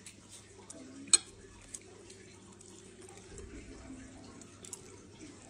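Close-up eating sounds of a person chewing a mouthful of red-braised pork belly and rice, with a few sharp clicks, the loudest about a second in.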